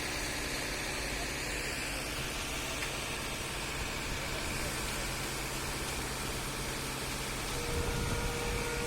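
A steady engine hum under a wide background noise, with a plain higher tone held for about a second and a half near the end.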